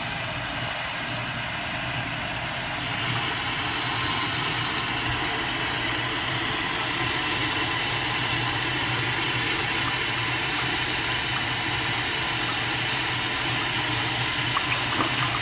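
1960 American Standard Cadet toilet flushing on garden-hose water pressure of about 60 PSI: a steady rush of water through the bowl and tank. It is fed straight from a hose rather than a house supply.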